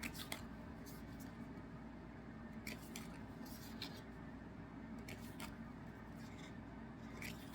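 Trading cards being handled and stacked: soft scattered taps and rustles of card stock sliding against card, over a faint steady room hum.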